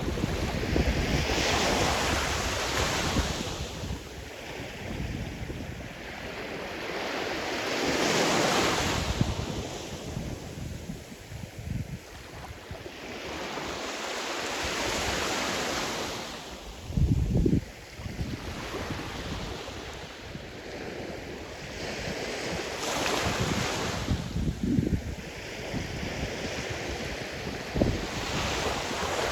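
Sea surf: waves breaking and washing up the shore in slow surges every several seconds, with wind buffeting the microphone. There is a short, loud low buffet just past halfway.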